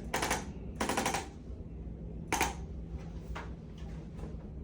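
Handheld chiropractic percussion adjusting instrument firing short bursts of rapid taps against the back. The three bursts in the first couple of seconds are strongest and several fainter ones follow, as it works the muscles to settle spasm.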